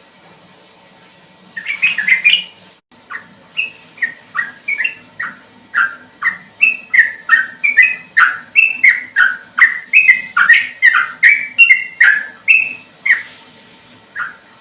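Sooty-headed bulbul (trucukan) singing a long run of short, clear, falling whistled notes, about two to three a second. It starts about a second and a half in and stops near the end.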